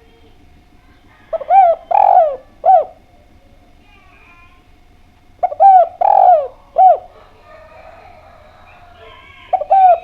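Spotted dove (derkuku) cooing: three phrases about four seconds apart, each a quick short note, a longer swelling coo and a short final note.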